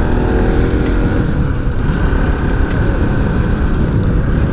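Bajaj Pulsar NS200 motorcycle engine running while riding, its note sinking a little as it eases off in the first second, under heavy wind rumble on the helmet microphone.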